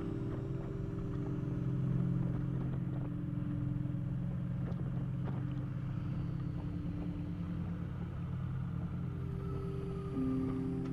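Kawasaki Vulcan motorcycle engine running at a steady cruise under low wind and road rumble. A faint rising tone comes in near the end.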